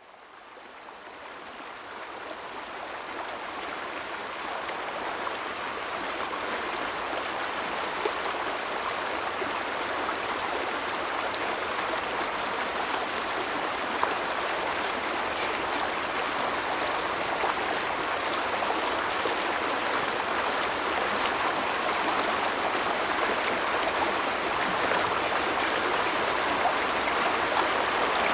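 Stream water flowing and splashing steadily, fading in over the first few seconds.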